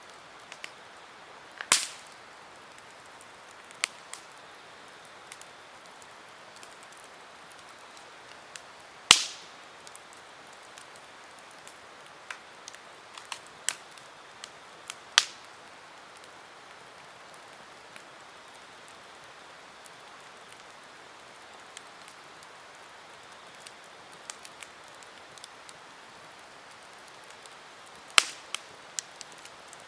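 Wood campfire crackling: a soft steady hiss of burning with scattered small snaps and a few sharp loud pops, the loudest about two seconds in, about nine seconds in, about fifteen seconds in and near the end.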